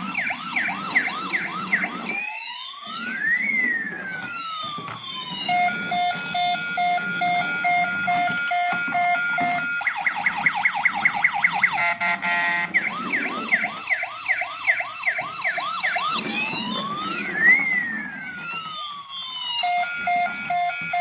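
A battery-powered toy police car's electronic siren sounding, cycling through several patterns: quick repeated wails, slow sweeps that rise and fall, a pulsing beep and a fast yelp. A low rumble runs underneath.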